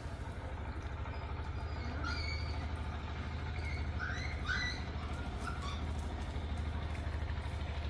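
A few short, rising bird chirps, about two and four seconds in, over a steady low pulsing rumble.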